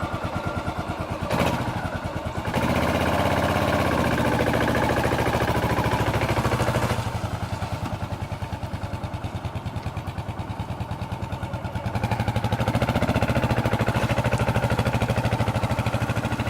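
Motorcycle engine running with an even pulsing beat. A sharp knock comes about a second in. The engine rises in revs and loudness about two seconds in, drops back around seven seconds, and rises again near twelve seconds.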